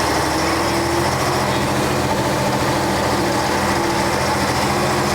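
Diesel engine of a 1966 Scania Vabis BF56 bus running steadily, heard on board, with a faint tone rising slightly early on.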